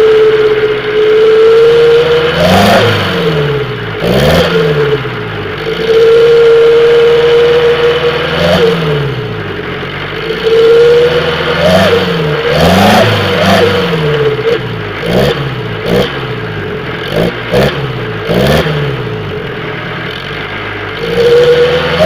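Car engine revved again and again through a 'wolf' (serigala) animal-sound exhaust, its pitch rising and falling with each blip. A steady high whistling howl comes and goes between the revs, and there are a few sharp clicks in the second half.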